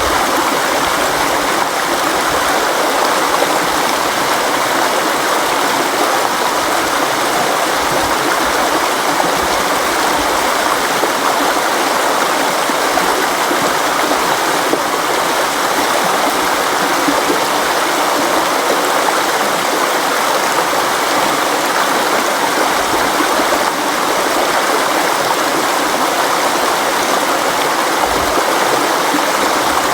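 A river flowing, a steady, unbroken rush of water that never rises or pauses.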